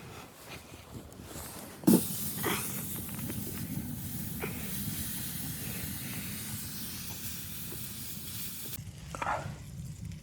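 A sharp knock about two seconds in, then a steady hiss that cuts off suddenly near the end.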